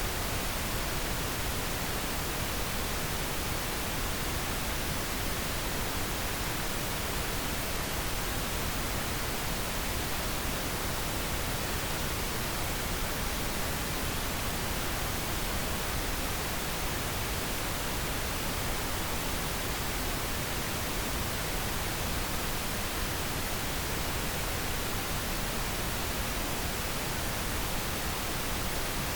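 Steady synthetic pink noise: an even, unchanging hiss spread across all pitches, with no other sounds.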